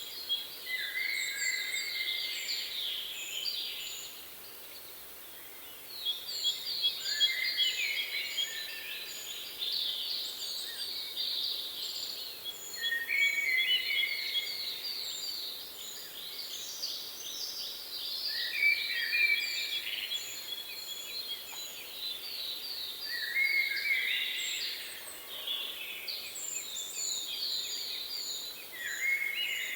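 Songbirds singing: phrases of fast, high trills come again every five to six seconds, with a thin series of very high short notes over them. There is a brief lull about four to six seconds in.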